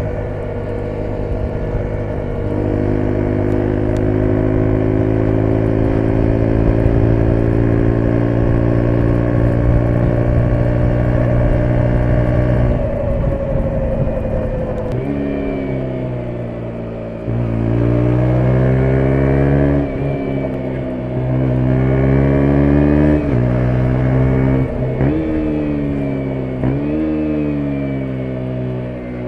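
2017 KTM 125 Duke's single-cylinder four-stroke engine under way. It holds steady, fairly high revs for roughly the first half, then revs up and drops back again and again as the bike accelerates through the gears and rolls off.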